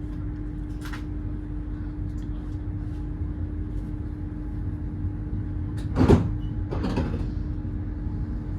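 Inside a Great Western Railway Class 800 IET train on the move: a steady low rumble with a steady hum over it. A sharp knock comes about six seconds in, followed by a lighter one.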